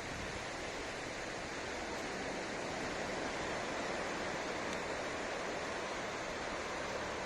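Ocean surf washing steadily onto a sandy beach, a continuous rushing wash that swells slightly partway through.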